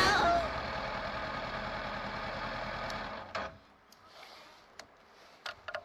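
Honda NX500 parallel-twin engine idling steadily, then switched off about three and a half seconds in, followed by a few faint clicks.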